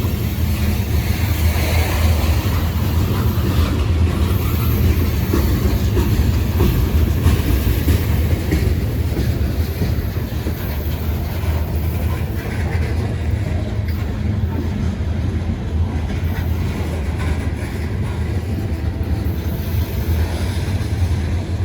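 Freight cars of a long Norfolk Southern mixed freight train rolling past, a steady low rumble of wheels on rail.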